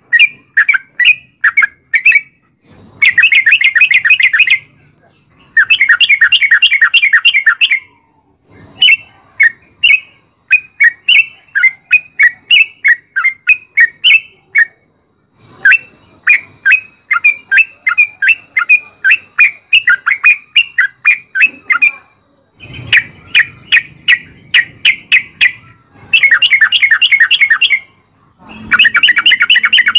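Yellow-vented bulbul (trucukan) singing a long song of quick, bubbly chirps. Several times these break into dense, rapid run-together phrases, the 'ropel' style.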